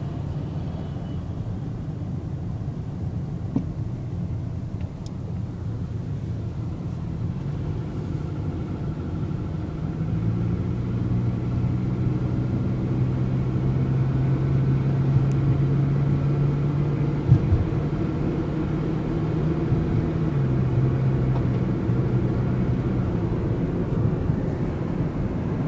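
A car's engine and road rumble while driving, heard from inside the cabin with the windows up. About ten seconds in, a steady engine hum comes up over the rumble and changes pitch about twenty seconds in.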